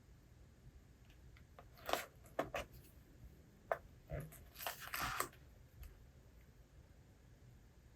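Paper rustling as book pages are handled and turned: a cluster of crisp rustles and small snaps from about two to five seconds in.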